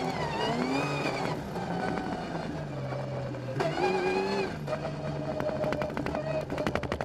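Rally car engine heard from inside the cockpit, revs rising and falling as the car is driven hard through the stage. A rapid run of sharp clicks and ticks comes in over the last couple of seconds.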